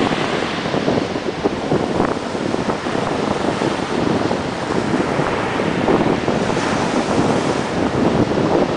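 Ocean surf breaking and washing up a beach, with wind buffeting the microphone into a rough, steady rumble.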